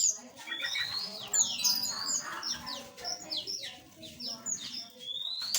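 Several small aviary birds chirping and calling over one another: quick high chirps mixed with rising whistles.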